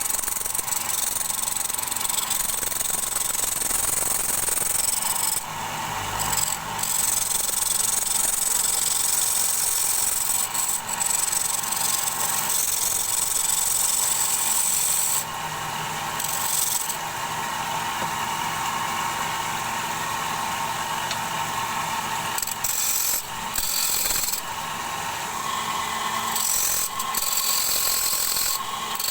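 Wood being turned on a lathe: a turning tool cutting into the spinning bowl blank with a steady rasping hiss, broken a few times by short pauses where the tool comes off the wood.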